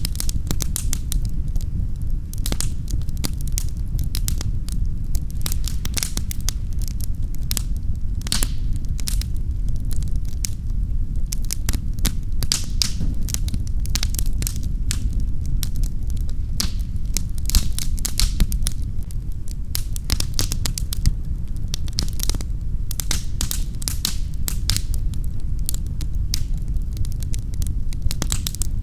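Wood fire crackling and popping in a fireplace, irregular sharp snaps over a steady low rumble.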